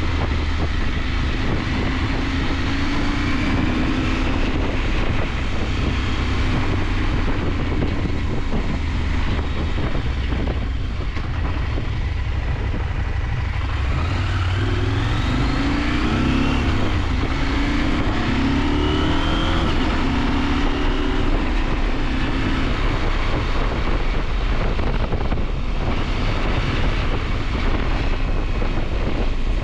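KTM 890 Adventure's parallel-twin engine under way, its revs climbing in steps as it pulls up through the gears a few seconds in and again through the middle, over a steady rush of wind.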